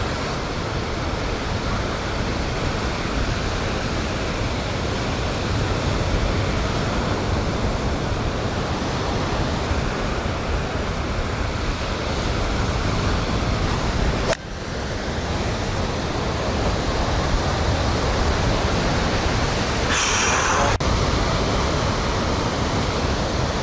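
Steady rushing of wind buffeting the microphone, strongest in the low end, broken by a brief cut about two-thirds through. A short, higher-pitched sound comes near the end.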